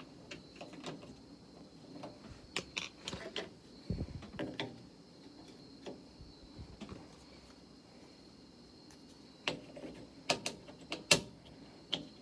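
Scattered clicks and knocks from hands and tools working at the door and window mechanism of a 1968 Saab 95. They come in two clusters with a quieter lull between.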